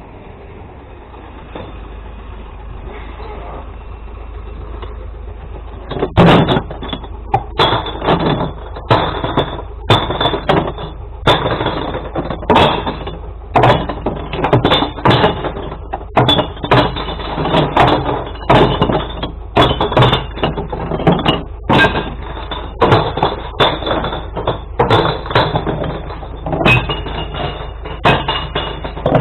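Glass bottles and jars being thrown one at a time into a glass-collection truck, each landing with a sharp clink or smash, roughly one or two a second, starting about six seconds in over the truck's running engine.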